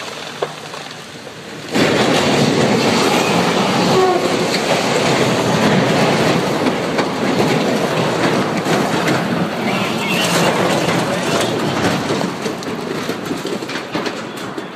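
Freight train wagons rumbling and clattering on the rails as a landslide derails the train. The sound starts suddenly about two seconds in and stays loud to the end.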